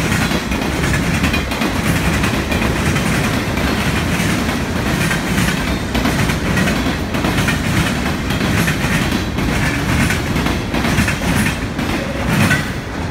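Freight train cars rolling past: boxcars and loaded centerbeam lumber flatcars, their steel wheels clattering over the rail joints in a continuous rumble, with a louder burst of clatter near the end.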